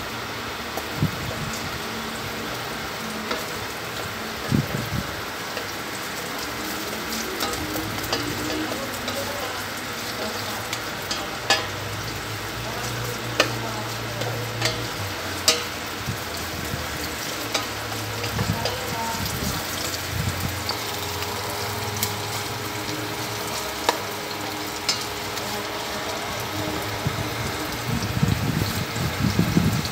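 Garlic, onion and ginger sautéing in oil in a stainless steel pot: a steady sizzle, stirred with a wooden spatula that now and then knocks sharply against the pot.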